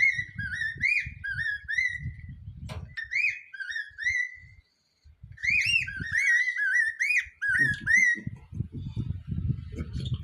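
Small bird singing whistled, warbling phrases that swoop up and down in pitch, in three runs with short pauses between, over a low rumble.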